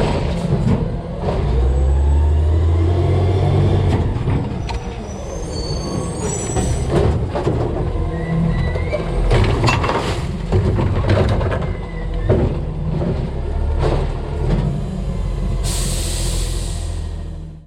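Refuse truck with a DaDee Scorpion side-loader body working its hopper: the CNG engine runs up to drive the hydraulics, with repeated clanks and thuds from the arm, cans and packer. A burst of air hiss comes near the end.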